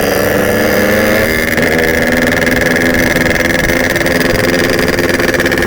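Yamaha RX-King 135cc single-cylinder two-stroke motorcycle engine running hard at speed. Its note sags slightly in the first second, shifts about a second and a half in, then holds steady.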